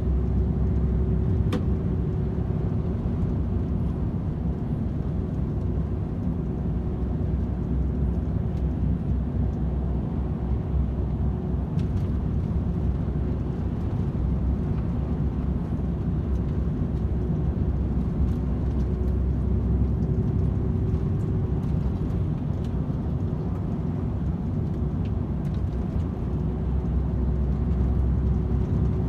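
DAF XF 510 truck cruising on a motorway: a steady low drone of its PACCAR MX-13 diesel engine and tyre and road noise, with a constant hum above it. A couple of faint clicks stand out briefly.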